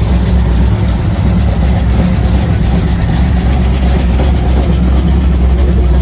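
Vehicle engine running loud and steady close by, a constant low drone with no change in pitch.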